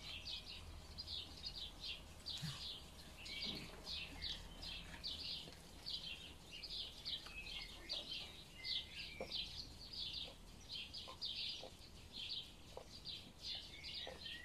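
Songbirds singing in the background: many short, high chirps in quick, irregular succession.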